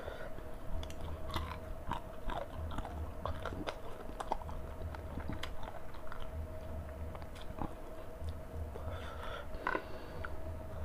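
Chewing and eating chicken and rice by hand: mouth and chewing noises with many small irregular clicks, and fingers working rice on a plate, over a steady faint hum.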